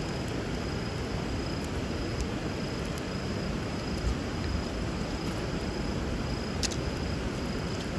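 River water running steadily under a wood bonfire, with a few light crackles from the fire and one sharper pop about six and a half seconds in.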